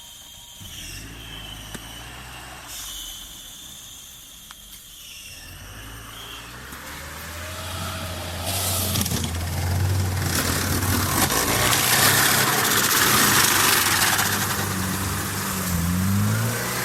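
UAZ-469 engine running as the off-roader drives into a stream crossing; about halfway through, a loud, continuous rush of splashing water builds up over the engine, and the engine revs up and down near the end.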